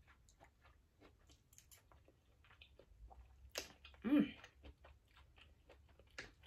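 A person chewing food close to the microphone: faint wet mouth clicks and smacks, with a louder click a little past three and a half seconds in and another near the end. A short hummed sound about four seconds in.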